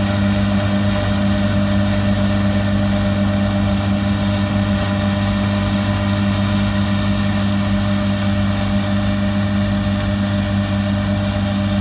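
Diesel engine of a large farm harvest machine running steadily at constant speed, with an even, unchanging hum.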